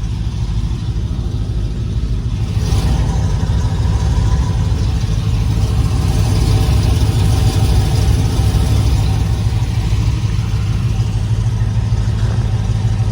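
Dodge Hellcat's supercharged V8 running while driving, a steady low drone that grows louder about two and a half seconds in as the car accelerates.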